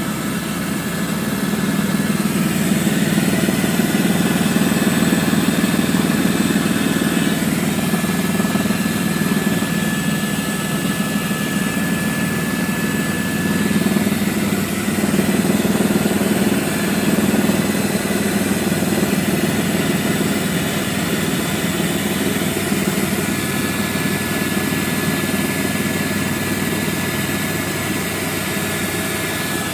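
Helicopter in flight, heard from aboard: a steady loud drone of engine and rotor, with a thin high whine that fades in and out.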